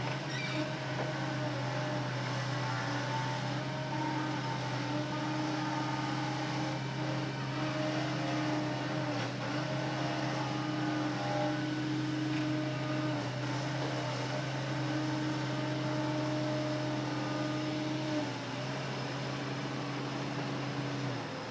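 Hitachi Zaxis excavator's diesel engine running steadily under hydraulic load while loading logs, with a steady hum. It eases briefly about 18 seconds in and again near the end.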